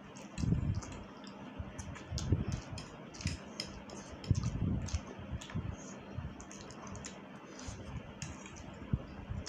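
Close-up eating sounds of someone eating spicy instant noodles: irregular wet mouth clicks and chewing, with a few louder low bumps.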